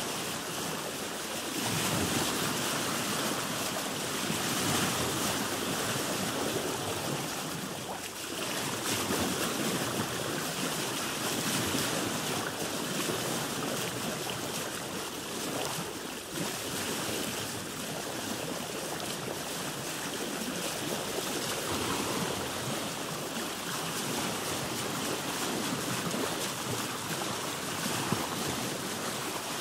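Sea water washing and splashing against a boat's hull, a continuous rush that swells and eases every few seconds.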